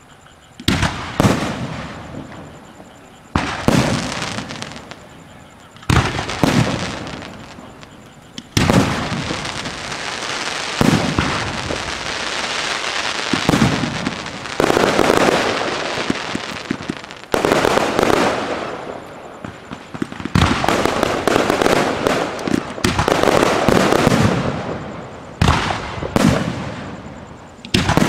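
Aerial fireworks shells bursting: single loud bangs a couple of seconds apart at first, then from about a third of the way in a dense barrage of overlapping bangs and crackling that runs on with more close-spaced bursts near the end.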